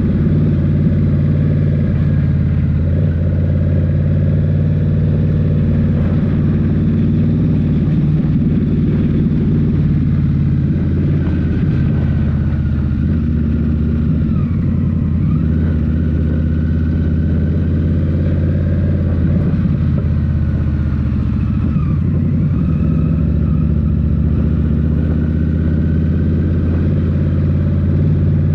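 Indian Scout Rogue's 1133 cc (69 cu-in) V-twin running through Rinehart slip-on exhausts as the motorcycle is ridden at a steady pace. Its note holds steady, with brief dips in pitch around the middle.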